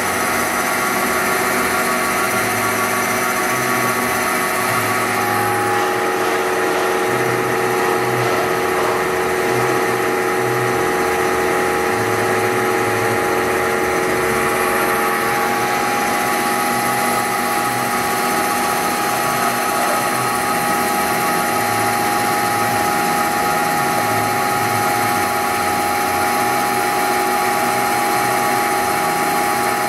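Fadal VMC 3016HT CNC vertical machining center running, a steady mechanical whine made of several held tones. New tones come in about five seconds in, and one of them drops out about halfway through.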